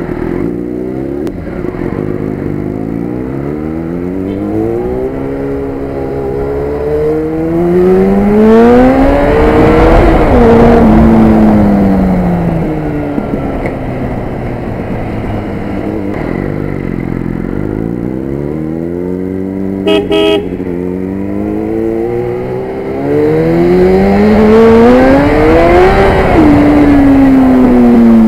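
Motorcycle engine accelerating hard through the gears twice, its pitch climbing steeply and then falling back as the throttle is closed, with wind rush. A car horn gives two short toots about twenty seconds in.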